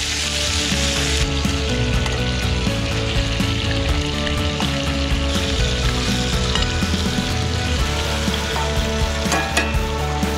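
Chicken thighs and asparagus sizzling in a cast iron skillet on a camp stove, with tongs moving the food about, while background music with a steady bass line plays over it.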